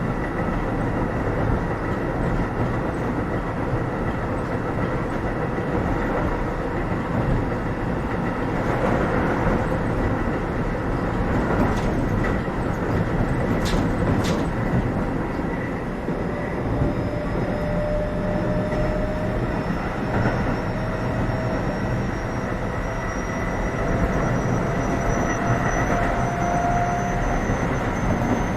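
Keio 7000 series train running between stations, heard from inside the passenger car: a steady rumble of wheels on rail. A couple of sharp clicks come about halfway through, and over the second half a faint whine rises slowly in pitch.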